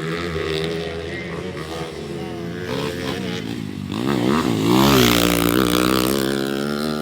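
Trail motorcycle engines in a 155 cc class racing, one bike coming close with its engine note rising and falling quickly as the rider works the throttle. Loudest about five seconds in.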